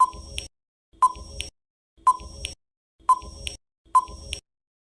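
Quiz countdown-timer sound effect: five short beeps about a second apart, each with a sharp start and a brief tail.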